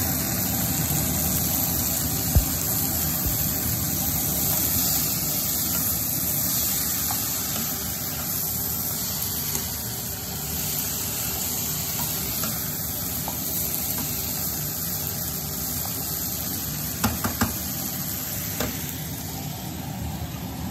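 Vegetables and chicken sizzling in a frying pan as they are stir-fried with a spatula. The sizzle is steady, with a sharp knock about two seconds in and a few more near the end.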